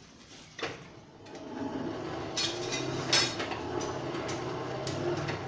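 Sharp metallic clinks of steel bar and tools being handled at the forge, over a steady mechanical hum that comes in about a second and a half in.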